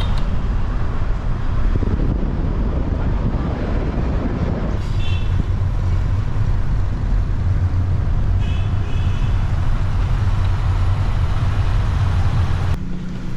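Car on the move: a steady low rumble of engine and road noise, with two brief high-pitched beeps along the way.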